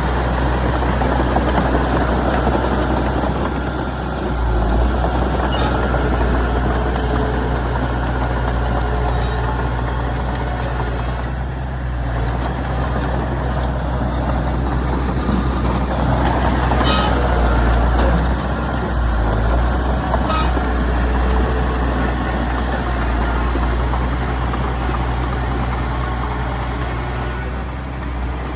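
Heavy diesel earthmoving machinery running steadily under load, its engine swelling a little a few times. Three brief high, sharp metallic sounds cut in over it.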